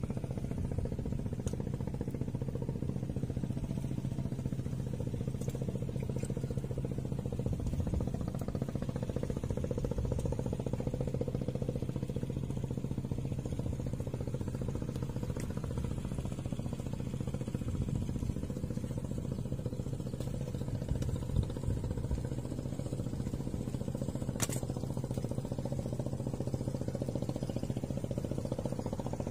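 Steady low drone of an engine running at a constant speed, the same pitch throughout, with a single faint click about 24 seconds in.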